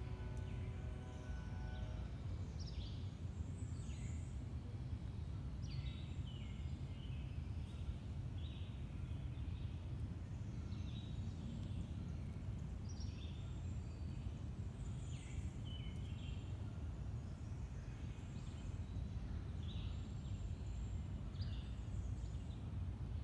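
Woodland birds chirping in short calls every second or so over a steady low rumble. A steady hum with several tones stops about two seconds in.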